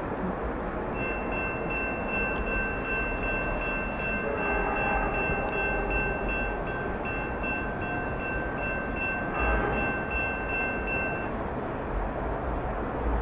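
Train passing, its rumble running throughout, with a steady high-pitched ringing tone from about a second in until near the end, broken briefly in the middle.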